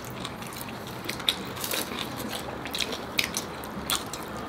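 Close-up chewing and crunching of crispy air-fried pork belly (lechon kawali) and its crackling skin: an irregular run of sharp crunches.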